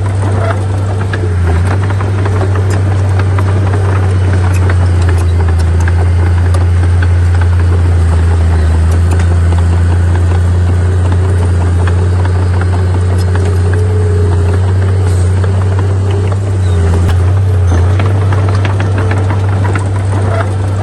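Heavy diesel earthmoving machinery, most likely a bulldozer, running steadily under load. Its deep engine hum holds constant throughout, with a fainter steady whine above it and scattered light clanks and rattles.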